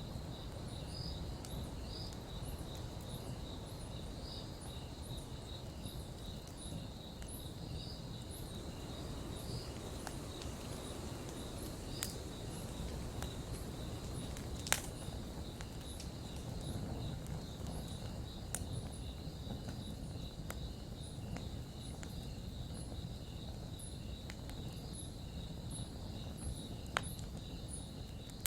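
Campfire burning with a low steady rush and a few sharp pops, the loudest about halfway through, while crickets chirp in a steady, evenly repeated rhythm.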